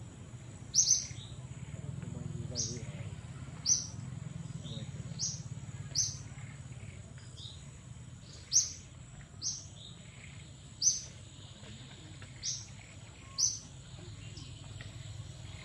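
A bird calling over and over: short, high, falling chirps about once a second, over a steady thin high-pitched tone and a low background hum.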